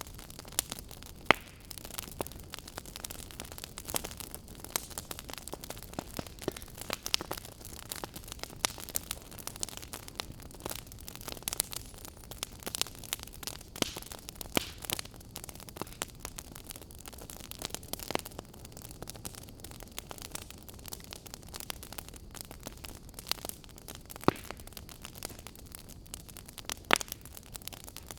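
Wood fire burning in a fireplace: a steady soft hiss with frequent irregular crackles and sharp pops.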